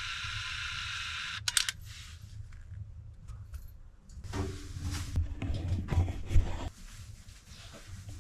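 Small plastic clicks, rattles and knocks of a Canon Prima Super 105 compact 35 mm film camera being handled as a roll of film is loaded, with a sharp pair of clicks about a second and a half in and a cluster of knocks and handling noise in the second half. A steady high hiss stops abruptly just before the first clicks.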